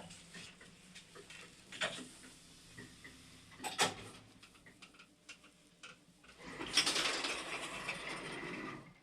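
Old 1981 MLZ passenger elevator at work: a few sharp clicks, then a stretch of noisy mechanical running about two thirds of the way in that cuts off suddenly.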